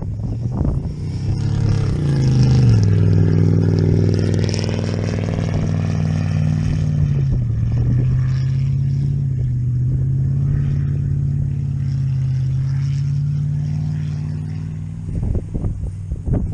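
Car engine: its revs fall over the first couple of seconds, then it runs at a steady low idle. A few short knocks near the end.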